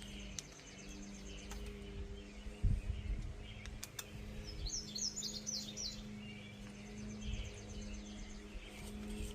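Small birds chirping, with a quick run of chirps near the middle, over a steady low hum. A single low thump comes about a third of the way in.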